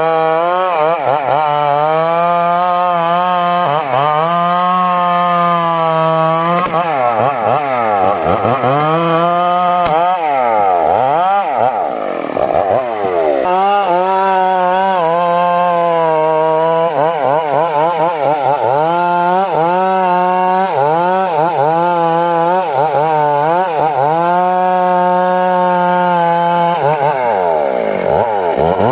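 Two-stroke chainsaw running at full throttle, cutting into sengon wood. Its pitch sags sharply and recovers again and again as the chain loads up in the cut, most deeply about seven to thirteen seconds in.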